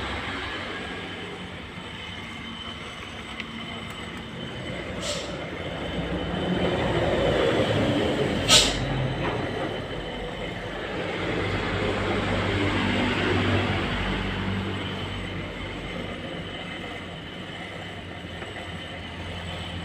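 Datsun Go Plus running steadily with a low hum, the noise swelling and easing twice, with two brief hisses about five and eight seconds in.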